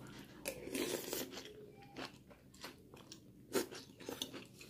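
A person chewing and biting a mouthful of crunchy kerupuk mie noodle crackers and raw vegetables, with irregular crunches close to the microphone.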